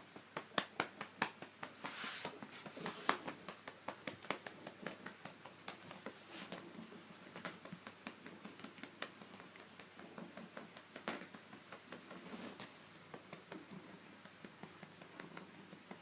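A hand patting a cat's rump in quick light slaps, several a second, loudest in the first few seconds and then softer and more irregular.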